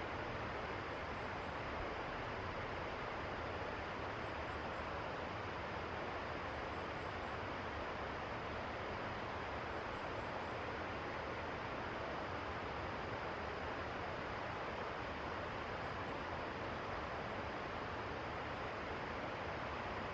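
Steady rushing of river water, with faint, very high chirps from a small bird in short groups of two to four every second or two.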